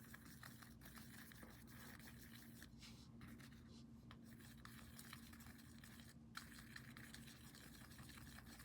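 Near silence, with faint scratching and light ticks of a stiff paintbrush dabbing paint onto a surface.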